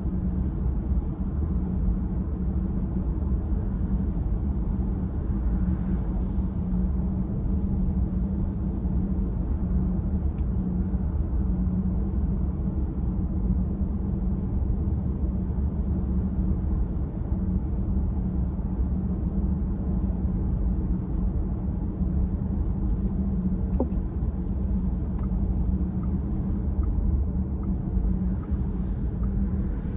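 Car being driven, a steady low rumble of engine and road noise with a constant hum.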